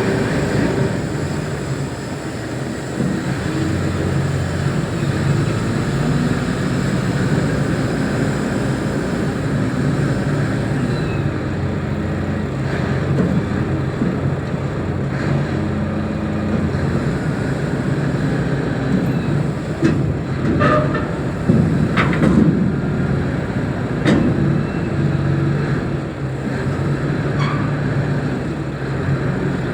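Reach stacker engine running steadily under load, with several sharp metallic knocks about two-thirds of the way in and near the end.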